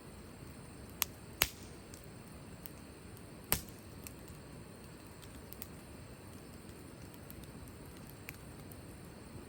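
Wood fire crackling: a low steady hiss with three sharp pops in the first four seconds, then scattered faint ticks.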